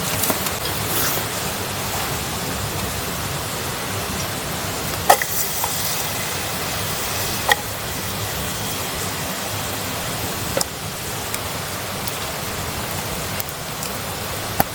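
Wood campfire burning with a steady hiss, and a few sharp pops from the burning wood.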